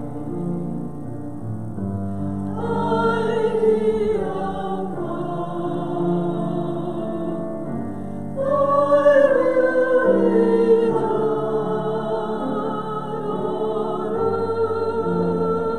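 Sacred vocal music: voices singing slow, sustained notes with vibrato, swelling louder a couple of times.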